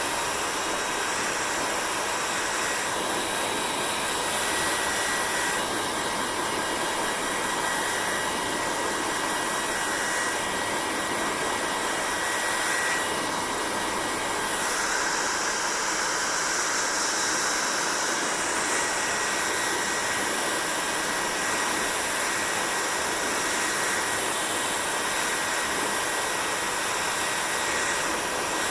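Hair dryer blowing steadily, a even rush of air with a faint high whine. The hiss grows brighter for a few seconds past the middle, then settles back.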